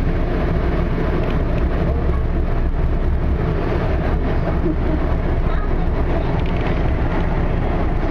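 Steady rumble of an LA Metro Expo Line light-rail train running along the track, heard from inside the car.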